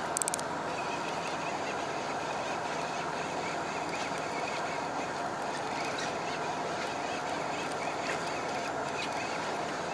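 Steady running noise of a fishing boat's engine, with a brief rattle of rapid clicks right at the start.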